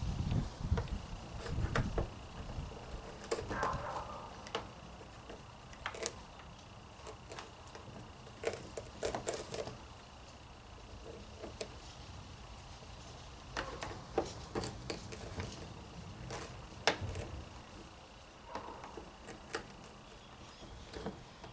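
Irregular clicks, knocks and rustles of plastic vacuum-cleaner parts being handled by hand while the brush roll is cleared of tangled hair and string; the vacuum's motor is not running.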